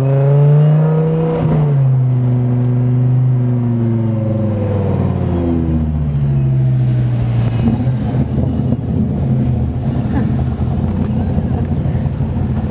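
High-performance car engine under way: its pitch rises and then drops back with a gear change in the first couple of seconds, and falls away around the middle. It then settles into a lumpy, uneven low rumble at low speed.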